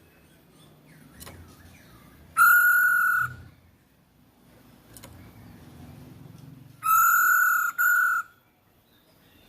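Female poksay hongkong (laughingthrush) calling: loud, flat, buzzy notes, one a little over two seconds in, then two back to back about seven seconds in.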